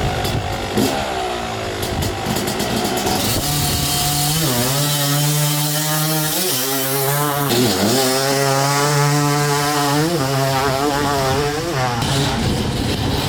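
Yamaha YZ250 two-stroke motocross engine running under load on the track. Its pitch holds steady, then dips sharply and climbs back several times: the throttle being chopped and reopened through gear changes.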